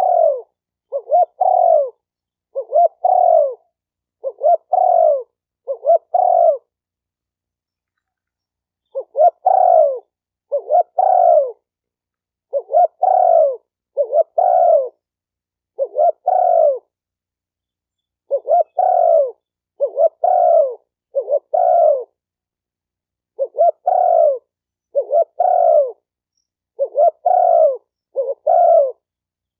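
Spotted dove cooing: runs of four to six short coos, each dipping slightly in pitch, broken by pauses of about two seconds.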